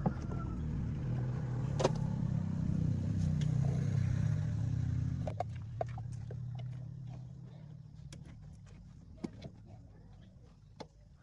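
Car engine running, the low hum swelling over the first few seconds and then slowly fading away, with scattered light clicks.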